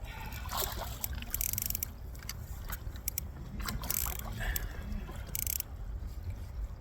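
Small fishing boat tossed in wind and wakes: a steady low wind rumble on the microphone with water against the hull, broken by several short bursts of hissing and clattering.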